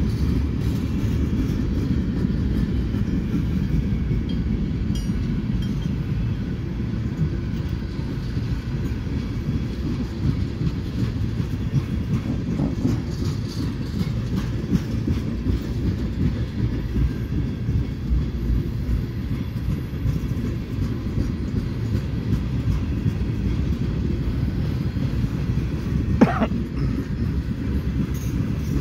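Freight train's tank cars rolling past, a steady low rumble of steel wheels on the rails. A short high squeal cuts through near the end.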